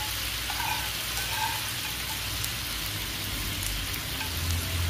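Glazed chicken drumsticks sizzling in oil in a nonstick frying pan: a steady hiss with small scattered crackles and a low hum underneath.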